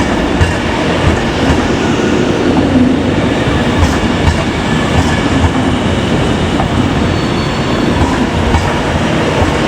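Electric train running on the rails: a loud, steady rumble with the clack of wheels over rail joints.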